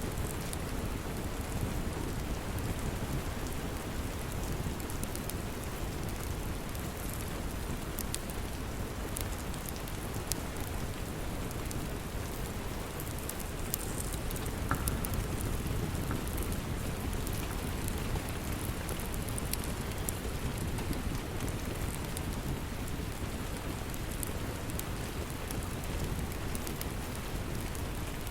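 Steady rain, with scattered sharp crackles of a wood fire over it.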